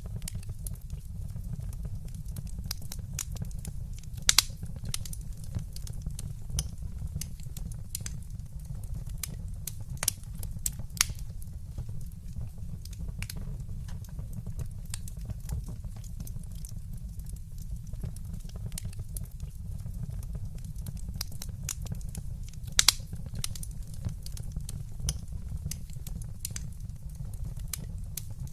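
Fireplace fire crackling steadily, with scattered sharp pops, the loudest about four seconds in and again past twenty seconds, over a steady low rumble.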